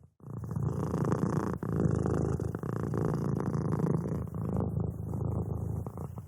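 Domestic cat purring steadily and close, a low rumbling purr that swells and eases with its breaths. There is a short break right at the start, and it fades near the end.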